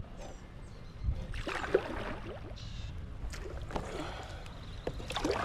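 Water splashing and gurgling around a Pelican Catch Mode 110 fishing kayak, in a burst about a second and a half in and again near the end, over a low steady rumble.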